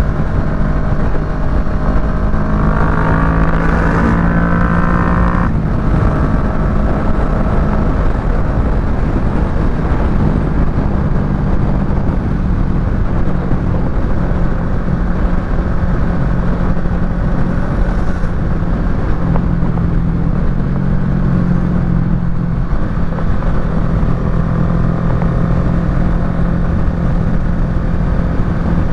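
Kawasaki Ninja 650's parallel-twin engine running through a Yoshimura full exhaust while riding. The revs climb for the first few seconds and drop sharply about five and a half seconds in, as at a gear change. After that the engine holds a steadier note.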